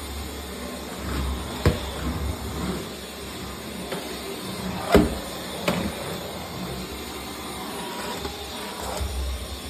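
Household vacuum cleaner running steadily, with a few sharp knocks as it is pushed around; the loudest knock comes about five seconds in.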